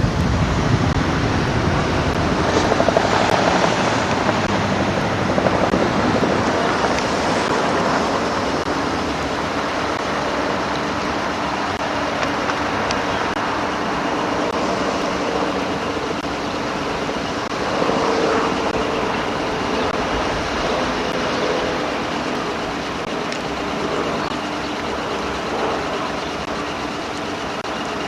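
Steady vehicle noise, an even rumble and hiss with a faint hum running through it.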